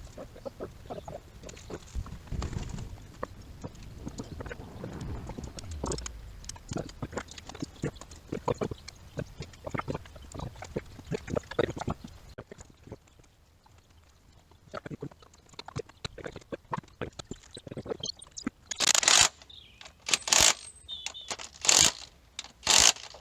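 Hand tools working on an engine during reassembly: irregular metal clicks, clinks and knocks, then a quieter stretch. Near the end come four or five loud short noisy bursts about a second and a half apart.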